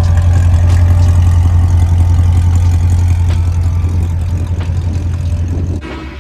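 Car engine running with a loud, steady deep exhaust drone, cutting off suddenly near the end.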